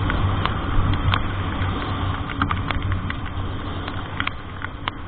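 Vehicle driving in rain: a steady low engine and road hum under a hiss of wet road noise, with scattered sharp taps of raindrops, the whole slowly getting quieter.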